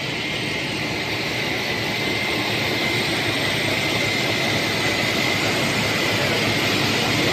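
Pet food production line machinery running: a steady, loud mechanical noise with a thin high whine held throughout.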